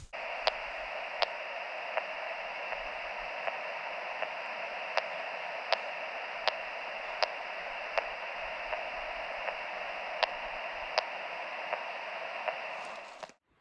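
Handheld VHF wildlife-telemetry receiver hissing with static, with a short beep from a moose radio collar's beacon at even intervals of about three-quarters of a second. The receiver's hiss cuts off suddenly near the end.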